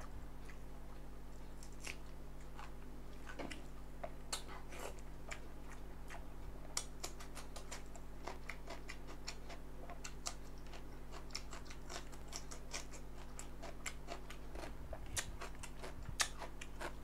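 A person chewing food close to the microphone: many small, irregular clicks and crunches of eating, over a steady low electrical hum.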